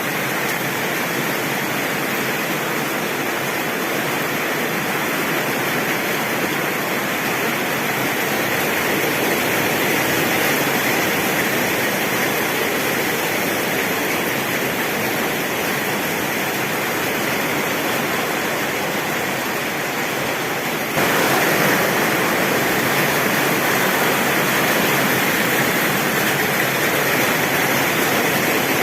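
Heavy rain falling steadily on a tin roof, an even hiss with no thunder. About two-thirds of the way through it abruptly gets louder and stays so.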